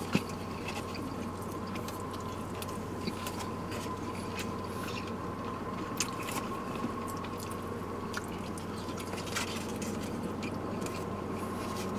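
People chewing food close to the microphone: soft mouth and chewing noises with scattered small clicks, over a steady low hum.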